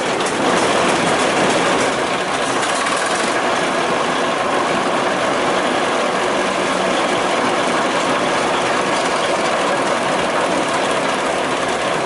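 The 1926 Twin City gasoline engine of a Northwest 105 dragline running steadily. This engine has a connecting-rod knock.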